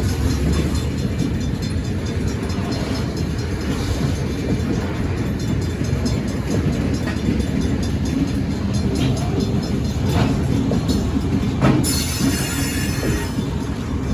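Stockton Terminal and Eastern freight train rolling past with a steady low rumble and occasional wheel clicks, with a brief high-pitched wheel screech near the end.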